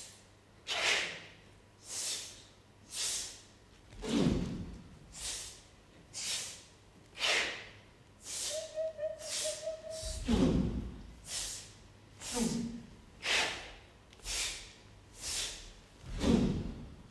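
Performers making rhythmic breath sounds, short hissing exhales about once a second, with a few low thuds among them and a brief hummed note about halfway through.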